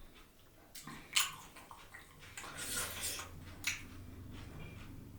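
Close-miked wet chewing and slurping sounds of someone eating, in a few short juicy bursts.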